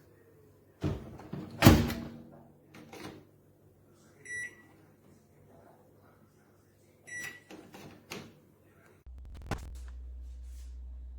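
Cecotec GrandHeat 2590 built-in microwave being worked: its door clunks about a second in, and two short beeps sound from the control panel with button clicks. About nine seconds in, a steady low hum sets in as the oven starts running.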